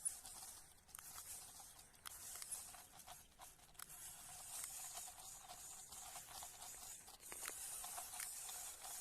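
Faint whir of a toy brick-built tractor's small electric motor and plastic gears, a steady hiss with a thin steady tone under it and scattered clicks.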